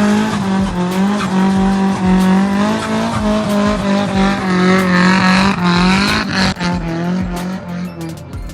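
A car engine revved hard and held at high revs, its pitch wavering up and down, then easing off near the end.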